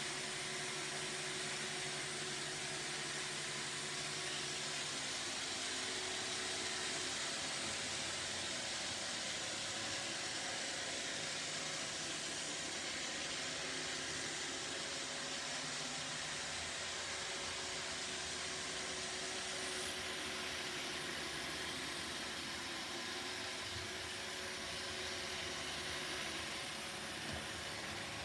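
Roomba robot vacuum running: a steady whirring hiss of its suction motor and brushes, with a change in the highest part of the hiss about two-thirds of the way in.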